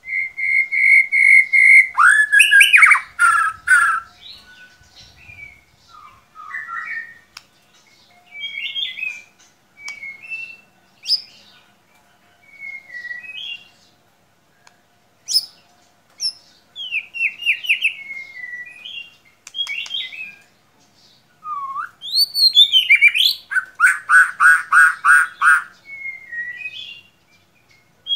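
White-rumped shama (murai batu) singing: a held whistle, then a loud burst of rapid notes, a string of short varied whistled phrases with gaps between them, and near the end another loud fast run of repeated notes.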